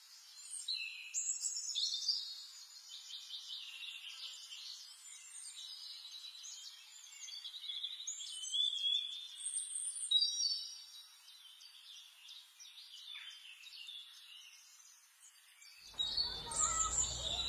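Birds singing: many short chirps, trills and whistles overlapping. Near the end a low rushing noise comes in suddenly under the birdsong.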